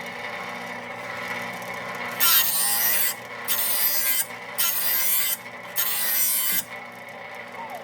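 A file drawn across the steel cutting edge of a John Deere Z335E mower blade to sharpen it: a run of filing strokes about a second apart, stopping shortly before the end.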